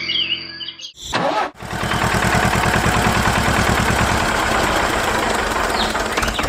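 Tractor engine starting: a short first burst about a second in, then the engine catches and runs with a steady, rapid putter.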